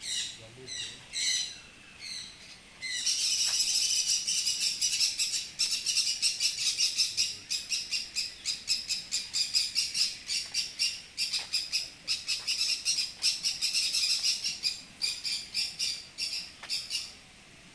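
A flock of small birds chirping: a few separate chirps at first, then from about three seconds in a dense, continuous chatter of rapid high chirps from many birds at once.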